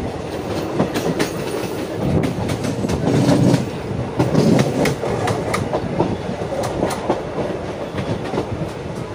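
Passenger train running between stations: a steady rumble of the coaches with wheels clacking irregularly over rail joints, swelling louder twice in the middle.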